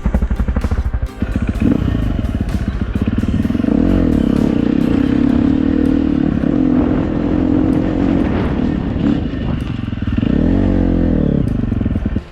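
Dirt bike engine riding on a trail: it pulses slowly for about a second, then picks up to a steady higher note under load. Its pitch rises and falls with the throttle, with a quick rev up and down near the end.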